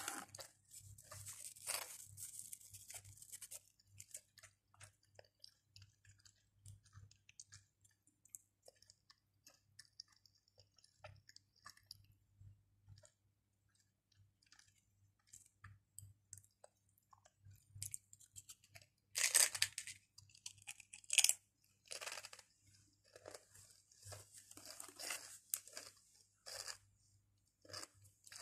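Pringles potato crisps crunched and chewed close to the microphone: quiet crackly chewing, then a run of louder bites and crunches about two-thirds of the way in.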